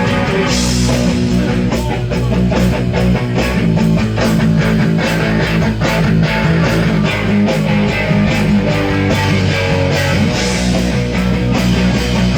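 Rock band playing an instrumental passage, led by guitar over a steady drum beat and bass.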